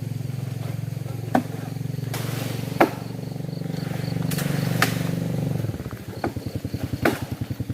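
Small motorcycle engine running steadily, then settling into a slower, pulsing idle about six seconds in. Several sharp clicks sound over it.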